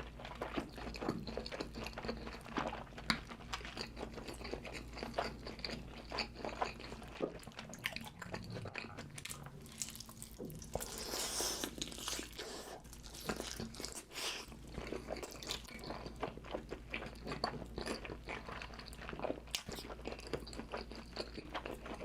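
Close-miked mukbang eating: wet chewing, biting and crunching of food in big mouthfuls, with a rapid, irregular run of clicks and crackles.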